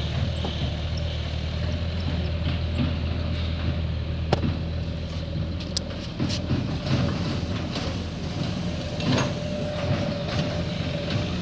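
Diesel tractor engine running with a steady low drone that weakens about six seconds in, with scattered knocks and rattles.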